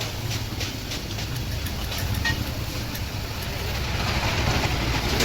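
An engine running with a steady low rumble, with scattered light clicks, and a hiss that swells from about four seconds in.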